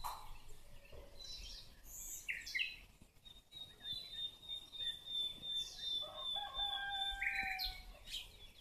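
Songbirds chirping in short calls, with a steady high whistling note held for about four seconds, and a rooster crowing once near the end.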